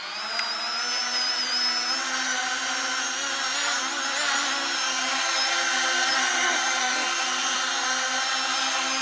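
Electric motor and propeller of a radio-controlled model aircraft running at high throttle: a steady high whine with overtones that levels off just after the start and wavers slightly in pitch.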